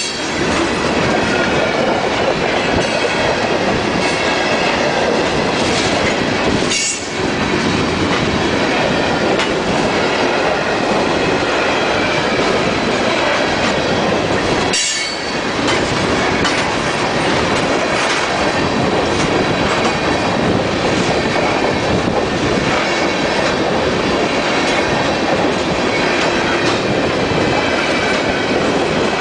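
Loud, steady rumble of a freight train's tank cars rolling past, steel wheels clattering over the rail joints.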